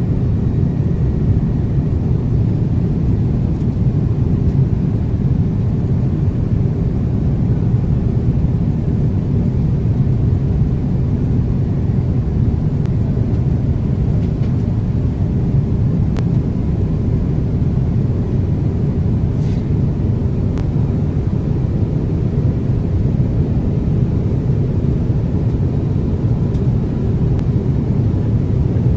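Steady low rumble of an Airbus A330-300 cabin in flight: engine and airflow noise heard from an economy seat, with a couple of faint clicks.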